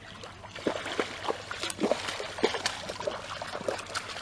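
Irregular splashing and sloshing of water as a hooked carp thrashes at the surface during the fight.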